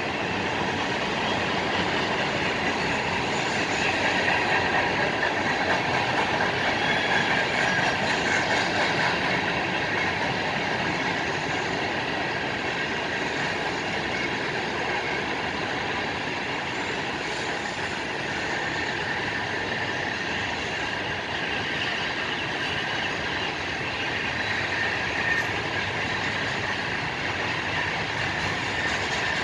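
Freight train cars rolling past on the track: a steady rumble and rattle of wheels on rail, a little louder a few seconds in.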